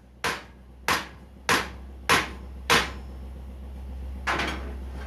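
Hammer striking in a steady rhythm: five sharp blows about 0.6 s apart, then a pause and one more blow near the end, over a steady low hum.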